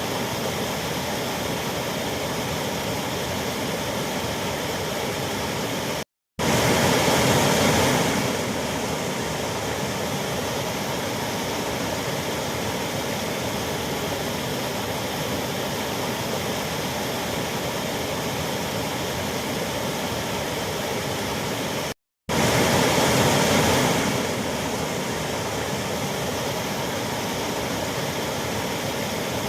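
A waterfall rushing in a steady, even roar of falling water. The sound drops out twice for a split second, about six seconds in and again near the 22-second mark, and each time comes back a little louder for a couple of seconds.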